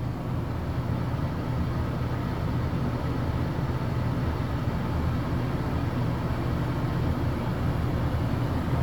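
Coleman Mach 13.5k BTU rooftop air conditioner's blower fan running steadily, a loud, noisy hum heard inside the trailer. The compressor has not yet kicked in: the unit is drawing only about 320 watts, fan alone.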